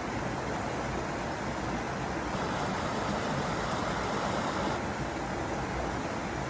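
Flowing stream water, a steady even noise, slightly brighter for a couple of seconds in the middle.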